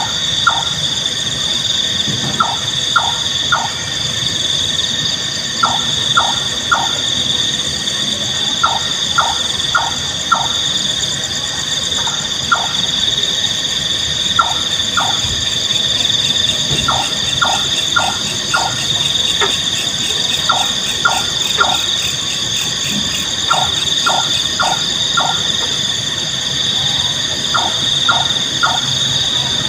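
Nightjar calling: short notes in groups of three to five, the groups repeated every two to three seconds. Under the calls runs a steady high-pitched buzzing drone.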